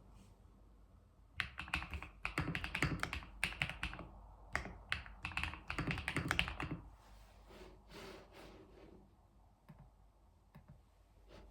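Typing on a computer keyboard: a quick run of keystrokes lasting about five seconds, then a few scattered key presses near the end.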